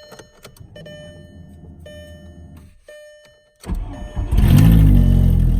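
VW 1.8T turbocharged four-cylinder engine being started: a faint low hum with a few clicks, then about three and a half seconds in it cranks and catches with a rev flare that rises and falls, settling into a loud run.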